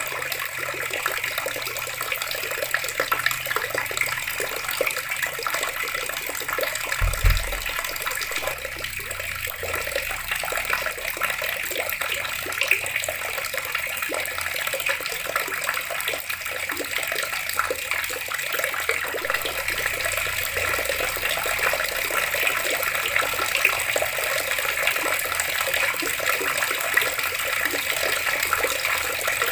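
Water tap running steadily, the stream splashing into water below. There is one brief low thump about seven seconds in.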